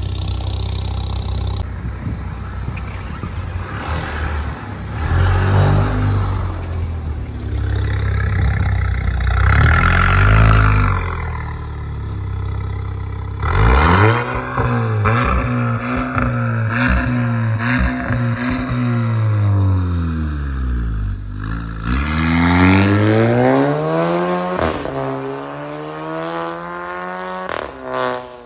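Volkswagen Golf Mk8 1.5 eTSI four-cylinder turbo engine running through an aftermarket exhaust with a downpipe and Varex valves, the car driven under hard acceleration. In the second half its pitch climbs, sinks slowly, then climbs again.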